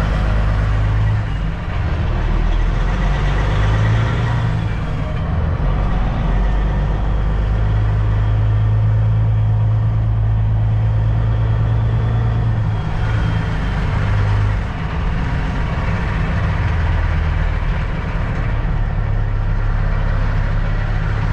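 Semi truck's diesel engine running at low speed as the truck creeps through a tight spot: a steady low drone that shifts a little in pitch several times.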